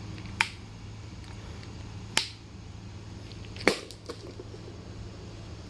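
Three sharp knocks, about a second and a half to two seconds apart, over a steady low hum.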